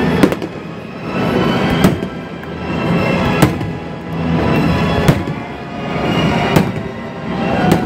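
Fireworks display with music over loudspeakers: held musical tones and sharp bangs about every second and a half.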